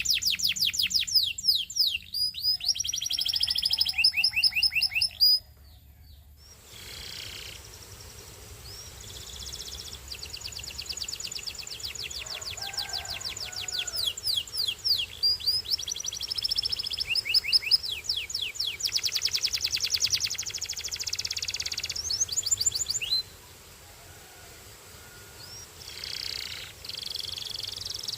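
Canary singing: fast trills and rolls of rapidly repeated high notes, in long phrases with pauses between them.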